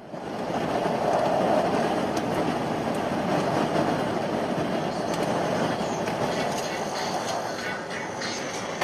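Steady rumbling noise of a moving vehicle, starting abruptly at a cut, with a few faint clicks near the end.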